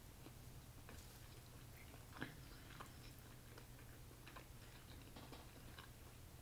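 Faint chewing of food, with a few small scattered clicks, over a low steady hum.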